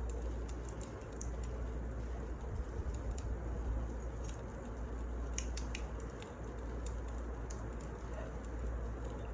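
Wood fire burning in a fireplace: a steady low rush with scattered sharp crackles and pops.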